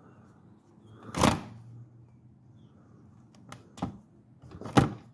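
Metal socket wrench clinking and knocking as it is fitted onto the oil drain plug. There is one sharp knock about a second in, then a few more clicks and knocks near the end.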